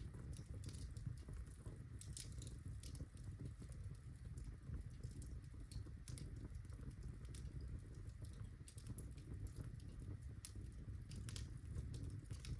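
Birch logs burning in a fireplace: irregular sharp crackles and pops over a low, steady rumble of the flames.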